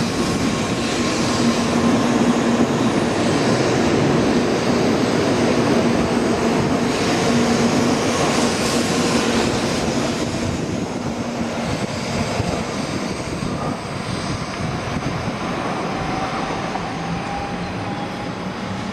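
N700-series Shinkansen train pulling out of the station: a continuous rumble of wheels and running gear, easing slightly in level. Steady tones in it die away about two-thirds of the way through, and a faint rising tone enters near the end.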